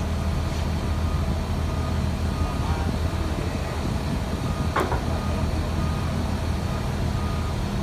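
Diesel engine of an EC480 excavator running steadily at idle, with a single sharp knock about five seconds in.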